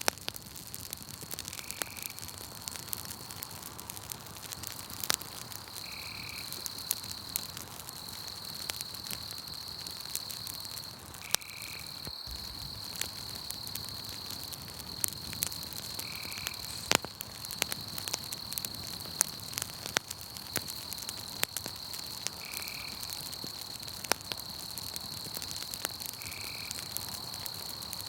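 Campfire crackling with frequent sharp pops, over a steady high-pitched trill of night insects. A short call repeats six times, every four to six seconds.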